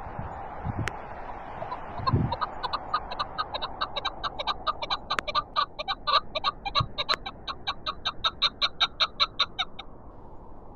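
Chukar partridge calling a long rapid run of clipped 'chuck' notes, about five a second, starting about two seconds in and stopping shortly before the end. Steady wind noise runs under it, with a low gust thump on the microphone just before the calls begin.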